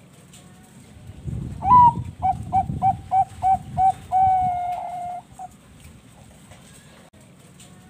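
Zebra dove (Bangkok perkutut) singing one full song: a rising opening note, a quick run of about seven short coos, then one long held coo, starting about a second and a half in.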